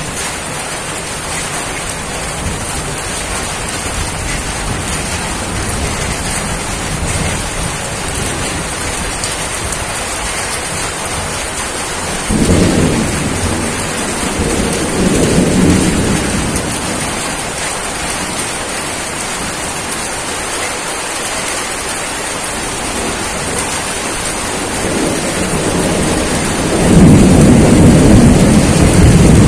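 Steady rain hissing, with thunder rumbling twice: a roll starting about twelve seconds in and a louder, longer one near the end.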